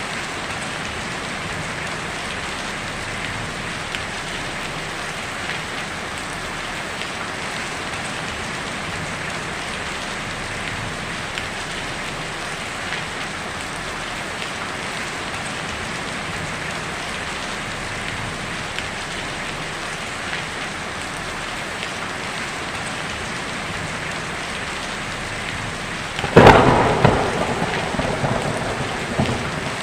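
Heavy rain falling steadily on a tin roof, with small drop ticks through it. About 26 seconds in, a sudden loud thunderclap cracks and then rumbles away over the next few seconds.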